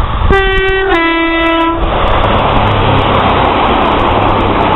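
A First Great Western Pacer diesel railbus sounds its two-tone horn, a short higher note then a longer lower one. It then passes close by with a steady rumble of engine and wheels.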